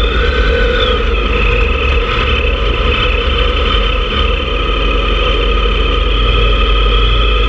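Motorcycle engine running at a steady cruise, its pitch holding nearly level, over a constant heavy low rumble.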